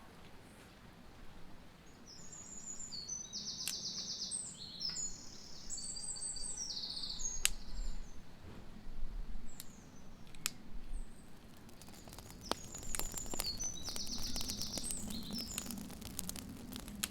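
A songbird singing quick phrases of fast high trills in two bouts with a pause between them. Scattered sharp clicks come through, growing more frequent near the end.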